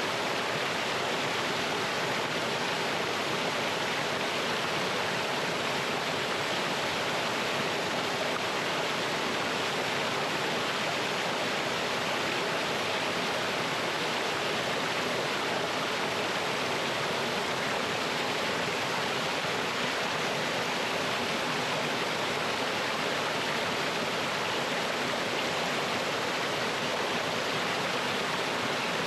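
Mountain stream running over rocks with a small waterfall: a steady, even rush of water.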